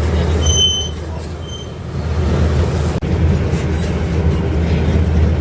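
Miniature park train running along its track, heard from aboard: a steady low rumble, with short high squeaks about half a second and a second and a half in and a sharp click about three seconds in.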